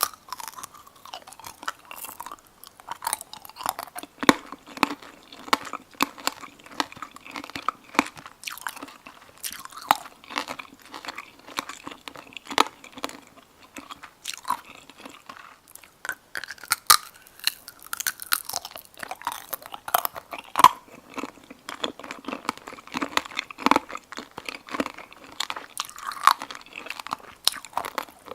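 Close-miked biting and chewing of tanghulu, fruit coated in a hard candied-sugar shell. The glassy shell cracks and crunches in a dense run of sharp snaps, with a few louder cracks at the bites.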